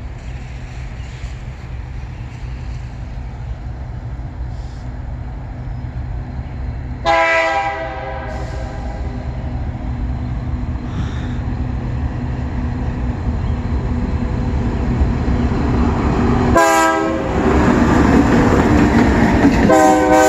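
Diesel freight locomotive approaching with a steady low rumble that grows louder, its air horn sounding a blast about seven seconds in, a shorter one near seventeen seconds, and another starting at the end.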